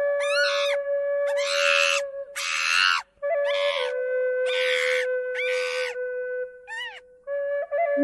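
An animal calling loudly about seven times in a row, each call about half a second long and harsh, over soft, slow flute music.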